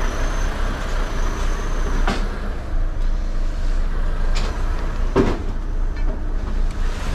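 Truck's diesel engine running steadily at low speed, heard from inside the cab while manoeuvring, with a few short knocks and clicks, the loudest about five seconds in.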